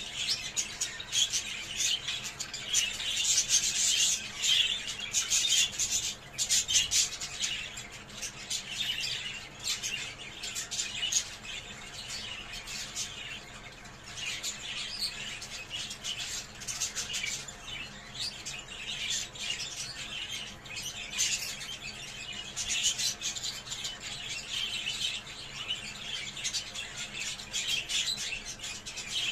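Budgerigars chattering and warbling, a dense unbroken stream of chirps and clicks that swells louder twice.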